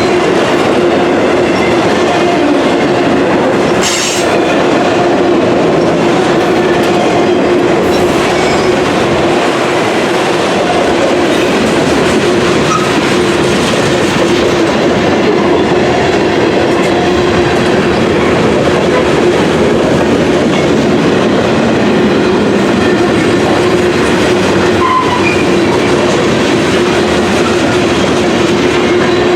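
Norfolk Southern freight train rolling past at close range: a loud, steady rumble of cars and wheels clicking over the rail joints, with a steady tone from the wheels running underneath.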